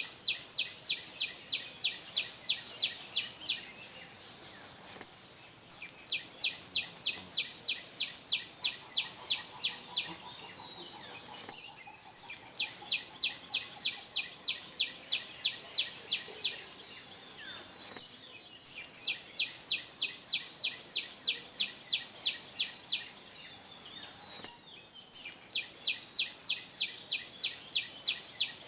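A bird singing one song over and over: a run of about a dozen sharp, high chirps at about four a second, lasting some three seconds, then a pause of two or three seconds before the next run. A thin, steady high whine, like insects, carries on beneath.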